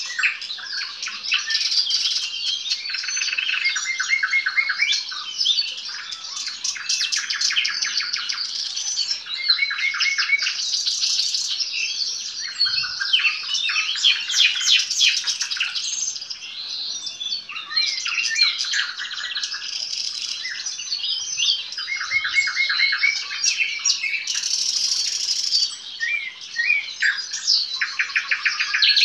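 Nightingale song: a continuous run of varied phrases, with rapid repeated-note trills and rattles, quick whistles and chirps, and hardly a pause.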